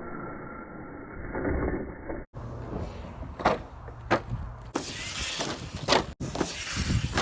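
Electric HPI Savage Flux RC truck driving and crashing, with several sharp knocks and clatters as it lands and tumbles.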